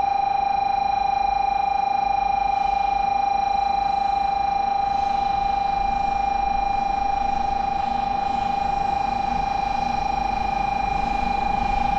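Platform warning buzzer sounding a steady, rapidly pulsing electronic tone as a Shinkansen train arrives at the track.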